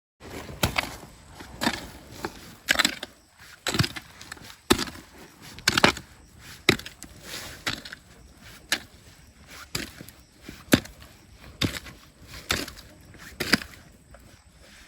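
A hand tool striking rocky ground about once a second, fourteen hits in a steady rhythm, as in digging through rock and gravel for gold-bearing sediment.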